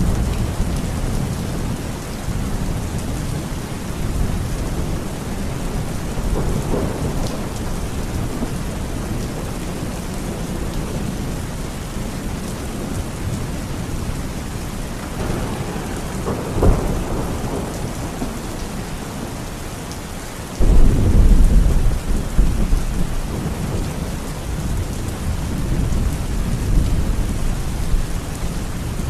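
Steady heavy rain with rolling thunder: a rumble builds about halfway through with a sharp crack, then a sudden, loud, deep thunderclap rolls on for several seconds about two-thirds of the way in.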